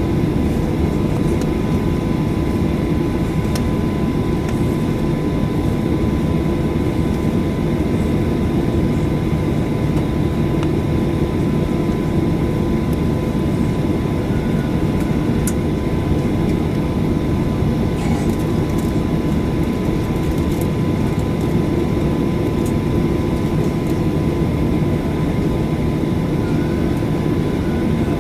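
Steady cabin noise inside a Boeing 737-800 with its CFM56-7B jet engines running: an even rumble and rush of air with a thin steady whine above it, and a few faint ticks of cabin rattle.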